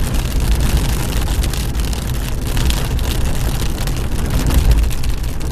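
Heavy rain pelting a moving car's roof and windshield, heard from inside the cabin as a dense patter, over a steady low rumble of the car's engine and tyres.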